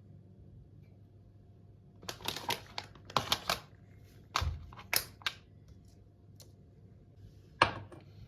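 A quick run of sharp clicks and taps, about a dozen over three and a half seconds, then a single louder knock near the end: kitchen utensils and containers being handled.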